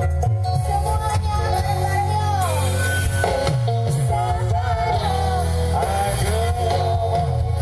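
Dangdut band playing live through a large PA sound system: heavy bass under a melody line that slides up and down, with some singing.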